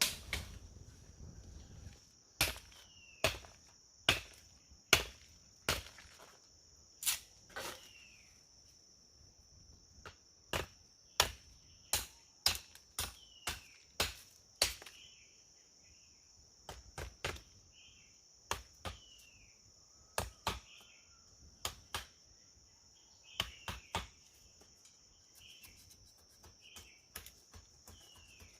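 Repeated sharp chopping blows, irregularly spaced at roughly one a second and thinning out near the end, over a steady high insect drone with short chirping calls in between.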